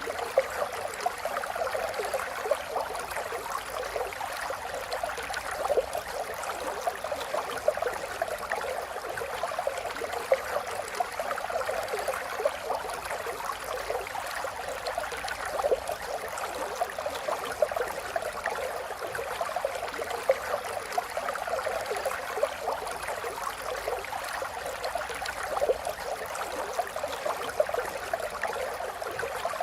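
Small stream running and trickling steadily, with a constant gurgling splash and small irregular peaks.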